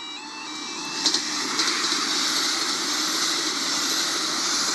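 Northern Ireland Railways diesel multiple unit passing over a level crossing: a steady rushing of wheels on rail and engine noise that builds through the passage, with a few sharp wheel clicks about a second in.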